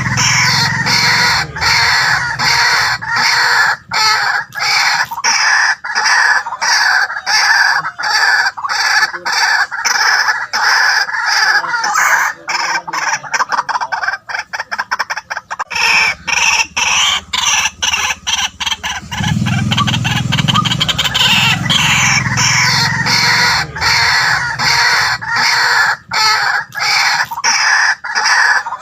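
White-breasted waterhen calling: a loud, continuous run of rapidly repeated harsh notes, which breaks up into shorter, choppier calls for a few seconds about halfway through.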